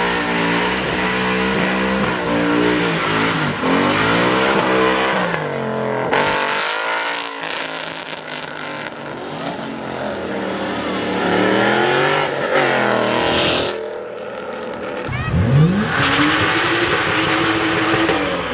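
Performance car engines revving hard and accelerating away, pitch climbing and falling with each rev. The sound breaks off twice, and about three-quarters of the way in a fresh rev climbs sharply from low to high.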